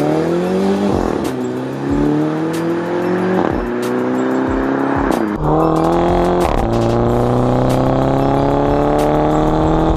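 Mini Cooper S's 2-litre four-cylinder running through a Remus cat-back exhaust under hard acceleration. The note climbs with the revs and drops back at each quick dual-clutch upshift, several times over.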